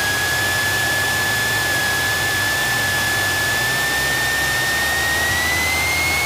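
Cabin noise of a Cessna 172SP taxiing, its four-cylinder Lycoming engine running at low power: a steady low drone and hiss with a high whine that rises slightly about five seconds in.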